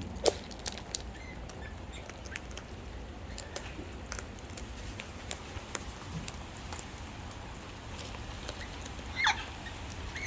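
Rain pattering and dripping, with many scattered light ticks. A single short bird call comes about nine seconds in.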